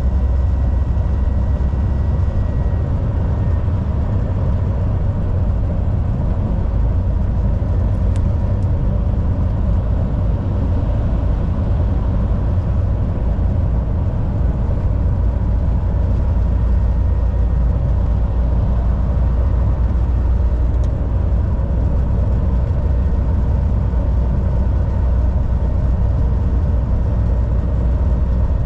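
Volvo VNL 760 semi truck cruising at steady highway speed: a continuous, even low drone of engine and road noise.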